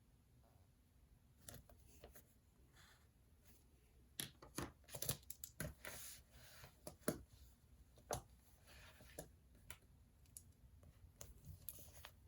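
Someone working at a desk: faint, irregular small taps and clicks mixed with short scratchy rustles. They begin about a second and a half in and are busiest in the middle.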